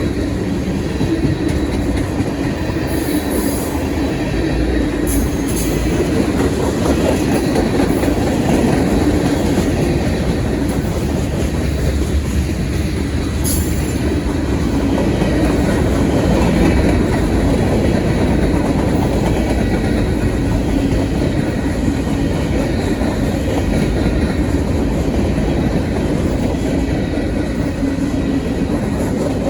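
Freight cars of a long mixed-manifest train rolling past at slow speed: a steady rumble of steel wheels on rail, with a few sharp clicks from the wheels and couplers.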